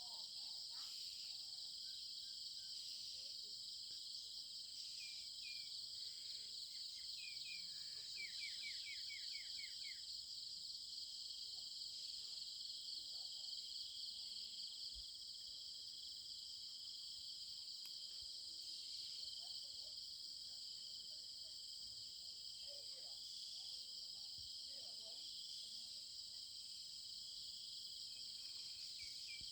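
Steady, high-pitched chorus of insects trilling, with a fast pulsing texture. A few short chirps come in between five and ten seconds in, including a quick run of falling notes.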